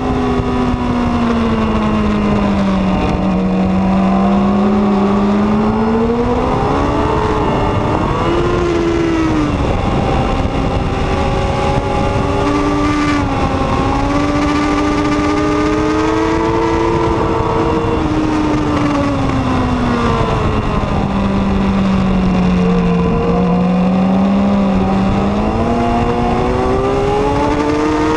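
Honda CBR1000RR SP's inline-four engine at racing speed, heard from on board over wind rush. Its revs sag twice, at about three seconds in and again near twenty-three seconds, then climb back and hold high in between.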